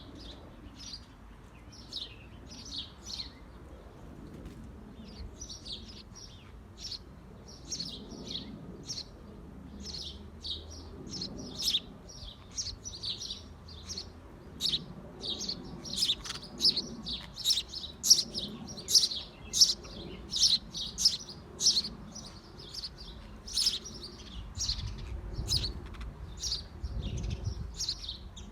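Small birds in a birdhouse chirping rapidly: short, high, thin chirps several a second, growing denser and louder in the middle.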